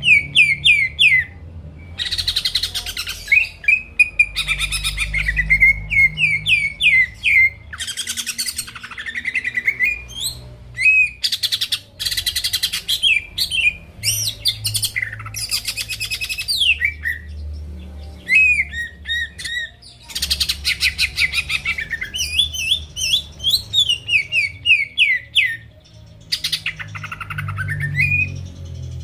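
A cucak ijo (green leafbird) singing nonstop. It gives fast runs of short whistled notes that slur downward, with stretches of dense, buzzy chattering in between.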